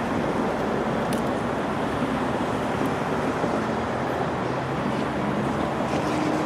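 NJ Transit commuter train close by, a steady, even rumble with a faint low hum running through it.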